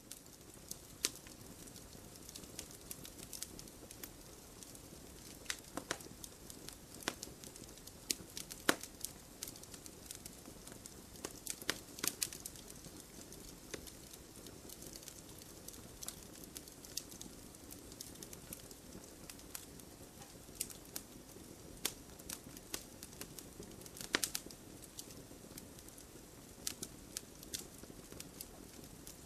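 Wood campfire crackling, with sharp pops coming irregularly over a low steady hiss.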